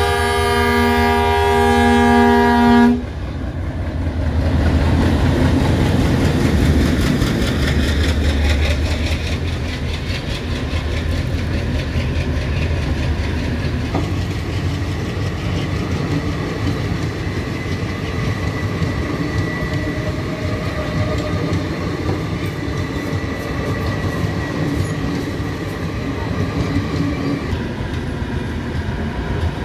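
Diesel locomotive horn blowing for about three seconds with a brief break, then cutting off. The locomotive passes close by, then a long string of passenger coaches rolls past, wheels clattering steadily over the rail joints.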